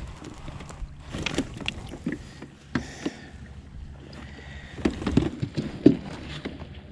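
Scattered knocks and clicks of gear being handled aboard a fishing kayak, over a faint steady low hum, with the sharpest knock near the end.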